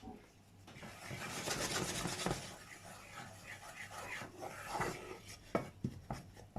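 A utensil stirring and scraping a butter-and-flour roux as it cooks in a pan, with a rasping stretch about a second in, then scattered scrapes and a few light knocks against the pan near the end.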